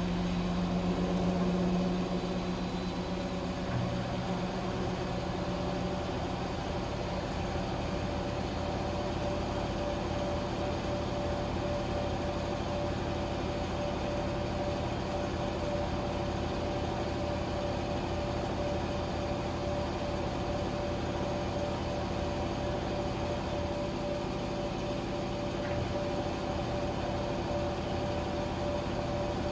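Washing machine running with a steady motor hum and a whirring tone. A lower hum drops out a few seconds in, with a faint knock.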